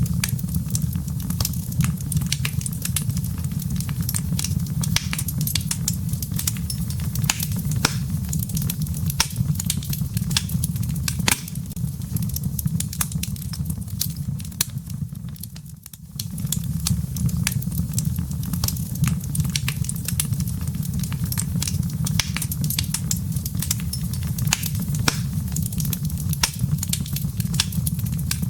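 Wood fire crackling in a fireplace: frequent sharp pops and snaps over a low, steady rush of flame. The sound briefly dips about halfway through, then carries on.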